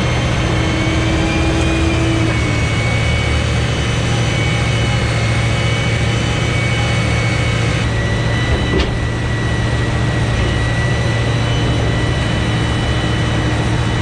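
Engine of a Sherp 10x10 all-terrain vehicle running steadily with a constant low hum and a high whine over it. The whine steps to a new pitch a couple of times, and there is one sharp click about nine seconds in.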